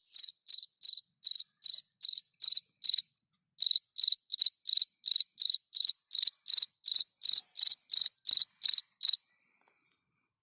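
Field cricket (Gryllus campestris) singing: a regular series of short, high chirps, about three a second. There is a brief break about three seconds in, and the song stops about nine seconds in.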